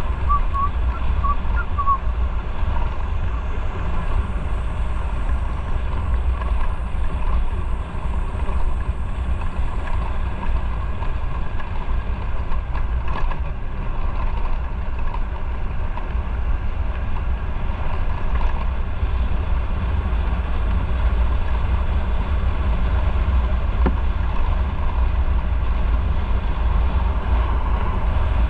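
Motorcycle under way: steady wind rush and low buffeting on the microphone over the running engine and road noise.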